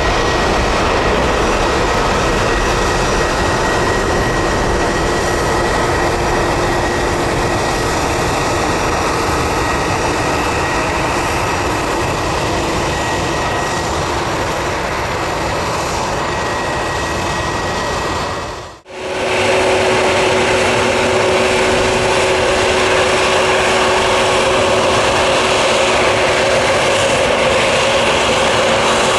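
Steady jet engine noise from a departing Boeing 787-9 airliner. About two-thirds of the way in there is an abrupt cut, and then the steady jet noise of a departing Airbus A321neo with a low hum in it.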